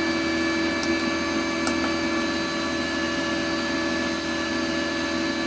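Cooling fan of a Parkside PMSG 200 A1 welder running steadily with the machine switched on and idle: a loud, even whir with a steady hum. Two faint clicks about one and almost two seconds in.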